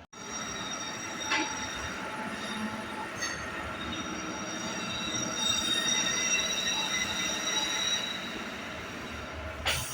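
MEMU electric train running on the rails, its wheels squealing in several steady high tones that swell in the middle, with a few clicks and knocks.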